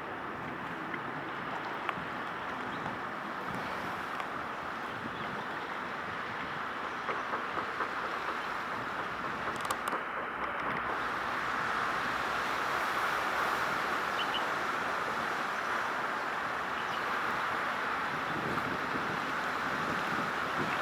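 Steady outdoor noise with no distinct tones, growing a little louder in the second half, with a few faint clicks near the middle.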